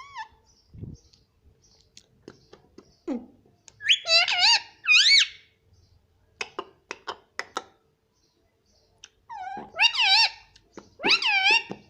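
Indian ringneck parrot calling: short wavering calls that bend up and down in pitch, in two bouts with a pause between. A quick run of sharp clicks comes in the middle.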